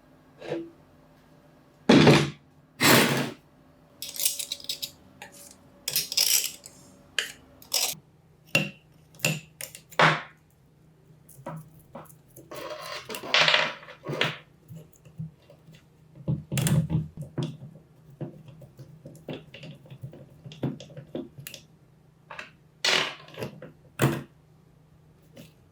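Metal tool parts and hand tools clinking, knocking and being set down on a bench at irregular intervals, with a few short stretches of scraping, over a faint steady hum.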